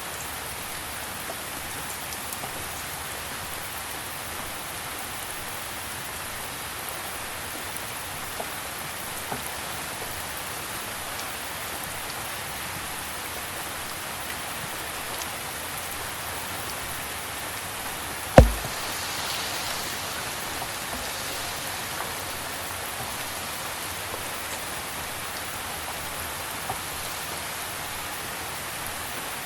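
Steady rain falling, with scattered drops ticking close by. One sharp knock about two-thirds of the way through is the loudest sound.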